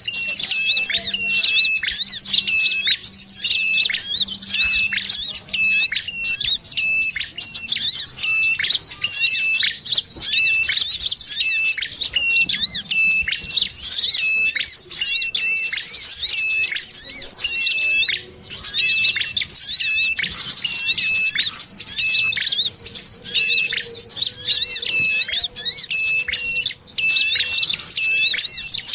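Bird-lure recording of sogon chatter mixed with red-headed prenjak and brown-throated sunbird calls. It is a dense, continuous high twittering of small birds, with a short, clear note repeated about once a second beneath it. The chatter breaks off briefly twice, about 7 and 18 seconds in.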